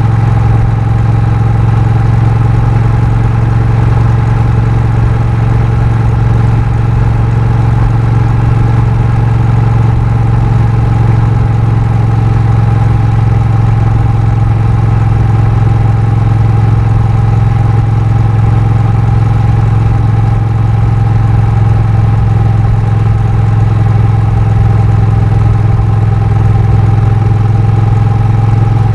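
Honda Rebel 1100's parallel-twin engine running at a steady speed, a constant low drone with a steady higher tone above it.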